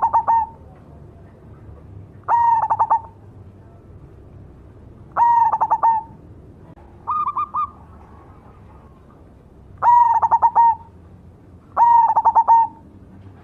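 Zebra dove (perkutut), black cemani variety, singing: repeated short phrases of rapid staccato cooing notes, one every two to three seconds, with one shorter, higher and softer phrase in the middle.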